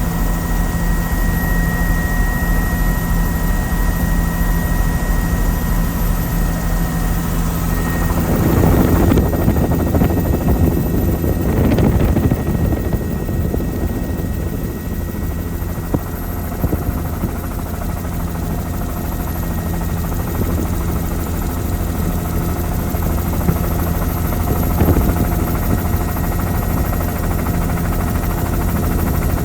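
Helicopter in flight, heard from aboard: the steady pulsing beat of the rotor over a constant engine and turbine whine. A louder rushing surge comes about eight seconds in and fades after about four seconds.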